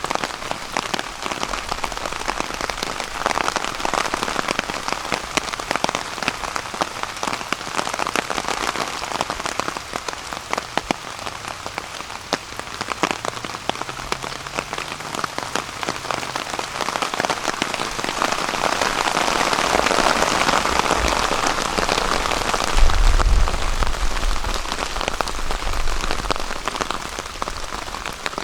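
Steady rain pattering on a tarp overhead, with many sharp individual drops standing out and the rain swelling heavier about two-thirds of the way through. A brief low rumble comes soon after the swell.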